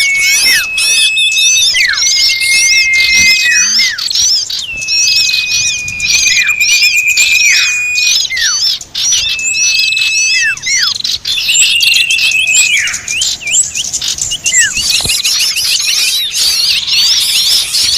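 Bird-lure recording of a noisy flock of small birds: a dense, continuous chorus of high chirps and twitters. Long held high whistles, each ending in a quick falling sweep, come back again and again over it.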